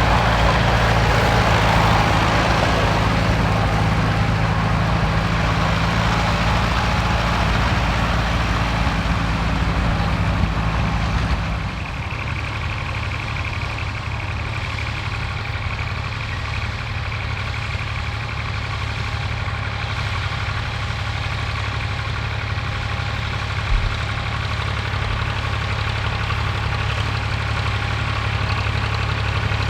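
Tractor engine running steadily. About twelve seconds in, the sound changes suddenly to a slightly quieter, different engine note.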